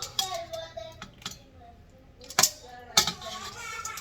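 Kitchen clatter: two sharp knocks of a utensil or pot, about two and a half and three seconds in, with voices talking in the background.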